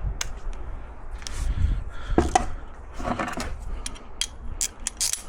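Metal tools and parts being handled: a series of clicks, knocks and short clatters.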